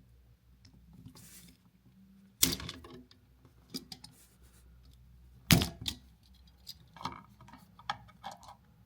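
Wire cutters snipping through the outlet's wires: two sharp snaps about three seconds apart, with smaller clicks and rattles of tool and outlet handling in between.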